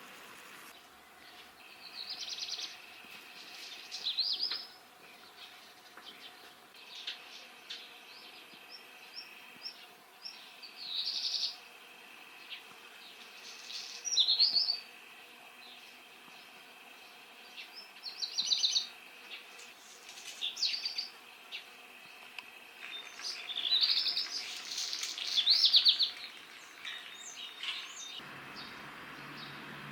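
Black redstart singing short high phrases every few seconds, several of them with a dry, crackling part.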